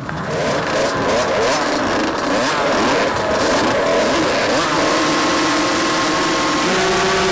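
Several motocross motorcycle engines revving, their pitches rising and falling over one another as the bikes accelerate and shift. Near the end the sound settles into a steadier drone.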